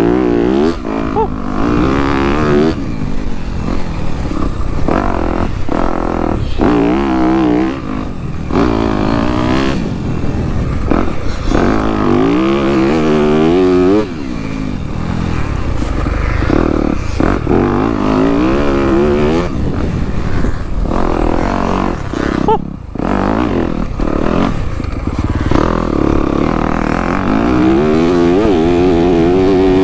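Dirt bike engine revving hard while being ridden, its pitch climbing and dropping again and again as the throttle is worked, with brief dips in level around 8, 14 and 23 seconds in.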